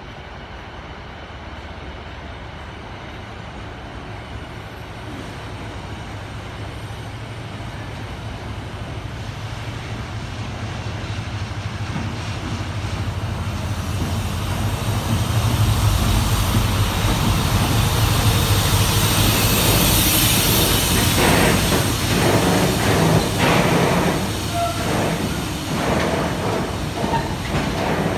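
Class 70 diesel locomotive drawing near and passing, its engine growing steadily louder over about fifteen seconds. Then the freight wagons roll by with a high hiss and a run of wheel clicks over the rail joints.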